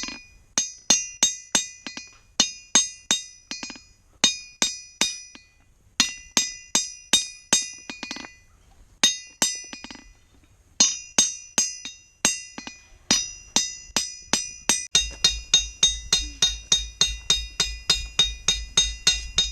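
Hammer striking steel on an anvil, each blow ringing out in a high metallic tone. The blows come in short groups of three or four, then about three quarters of the way in settle into a steady run of about three a second.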